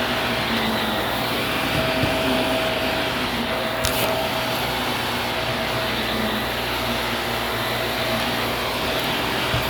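Vacuum cleaner running steadily, a continuous hiss with a steady whine, and one short click about four seconds in.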